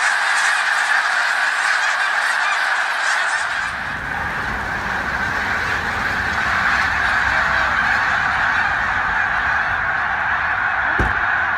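Steady rushing roar of a debris flow or flooded river, water carrying rocks and debris; a deeper rumble joins about three and a half seconds in, and a single knock sounds near the end.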